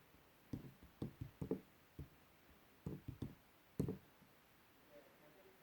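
Clay being broken apart: several bursts of short crunching cracks at irregular intervals.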